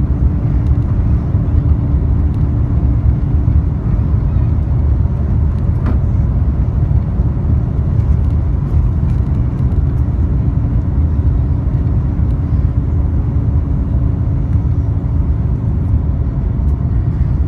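Steady low cabin roar of an Airbus A350-941 in flight, heard from a passenger seat: its Rolls-Royce Trent XWB engines and the airflow over the fuselage. A faint steady hum sits under it and fades a few seconds in, and a single short click sounds about six seconds in.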